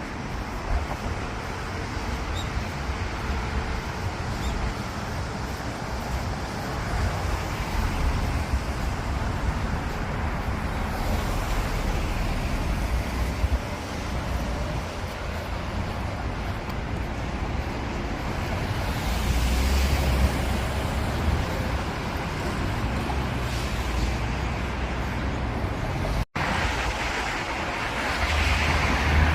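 Steady road traffic noise, swelling as vehicles pass about two-thirds of the way in and again near the end, broken once by a sudden brief dropout.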